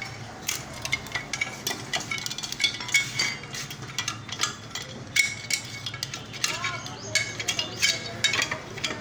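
Metal hand tools and loose engine bolts clinking and clattering: many irregular sharp clinks and taps, some with a short metallic ring, during a motorcycle engine strip-down.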